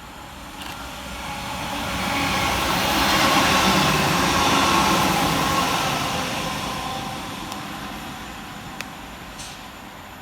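Northern Class 195 diesel multiple unit passing fast through the station, its noise building over the first few seconds, peaking around the middle and fading away.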